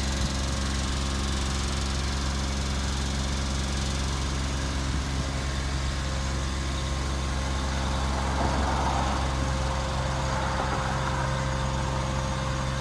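GMC C7500 bucket truck engine idling steadily, with a brief soft hiss about two-thirds of the way through.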